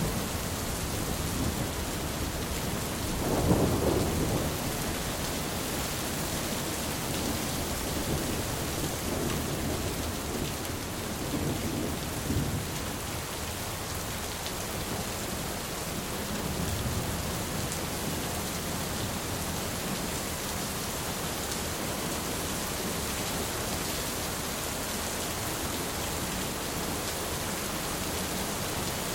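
Thunderstorm: steady rain hissing, with rolling thunder. A loud low rumble comes about three seconds in, and softer rumbles follow later.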